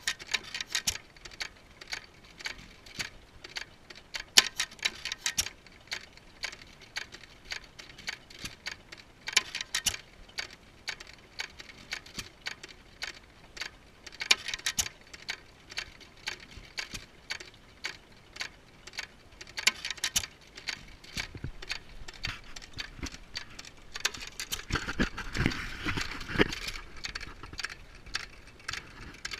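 Antique Majestic and Waterloo hit-and-miss engines running, a rapid mechanical clicking and ticking with busier stretches about every five seconds. Near the end comes a heavier run of low thumps.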